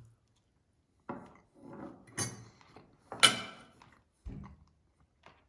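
Cutlery working on a microwave-meal tray as chicken is cut: a series of short scrapes and knocks, with two sharper clacks in the middle.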